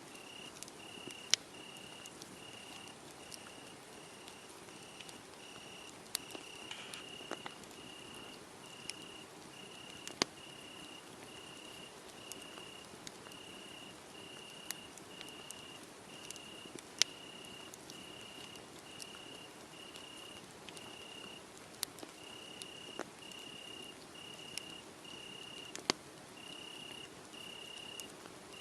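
A cricket chirping in an even rhythm, about one and a half chirps a second, over a crackling wood fire. The fire's sharp pops, a few seconds apart, are the loudest sounds.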